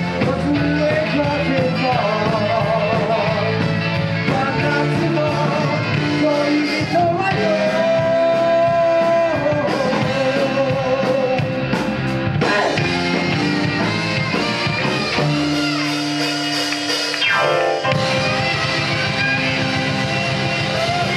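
Live rock band playing: a lead vocal with a wavering, held melody over guitar, bass and drums.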